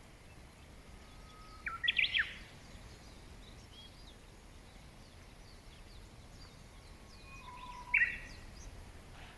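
Birdsong over a steady outdoor background hiss: a loud bird gives two short phrases about six seconds apart, each a few quick high notes and whistles, with fainter chirps from other birds in the distance.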